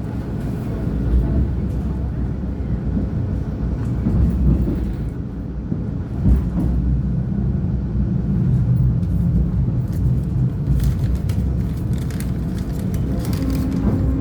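CP UDD diesel railcar running along the line, a steady low rumble of engine and wheels, with a run of sharp clicks and rattles in the last few seconds.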